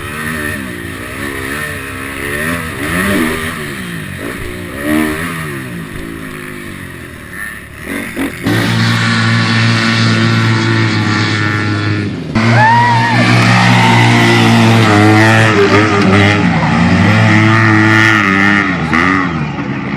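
Motocross dirt bike engines revving, the pitch climbing and dropping again and again with throttle and gear changes. About eight seconds in, the sound cuts suddenly to a louder, steadier engine drone, which shifts pitch only a few times.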